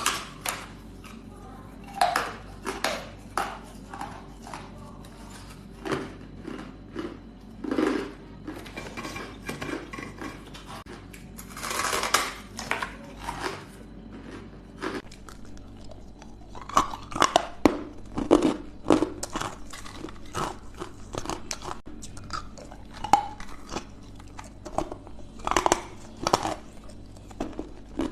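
Ice being bitten and chewed, with loud, irregular crunches close to the microphone, in clusters with short pauses between bites.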